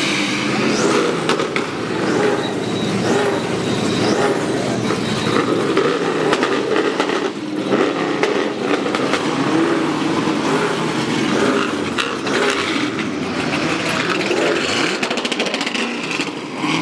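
Car engines running at a car meet, with a brief rise in engine pitch about twelve seconds in.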